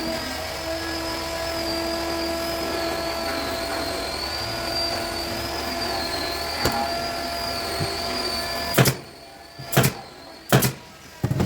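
An electric woodworking power tool running steadily with a high whine that wavers slightly in pitch. Near the end it cuts out, and three or four sharp knocks follow.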